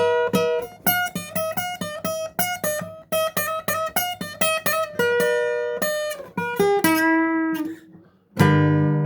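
Guitar playing a quick run of single picked notes in an instrumental break between sung verses. The notes stop for a moment about eight seconds in, then a loud strummed chord comes in.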